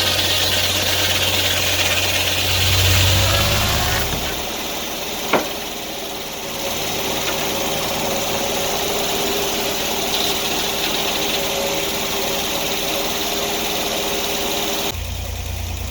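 Sawmill engine running steadily while the blade cuts through a log. Its low rumble drops away about four seconds in, a single sharp click follows about a second later, and the deep rumble comes back near the end.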